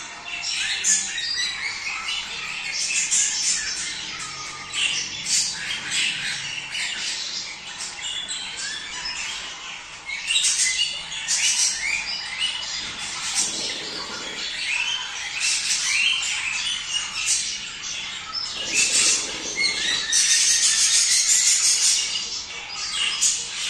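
A flock of budgerigars chattering continuously in overlapping chirps, warbles and squawks, the mating chatter of breeding budgies. A louder burst of harsh squawking comes near the end.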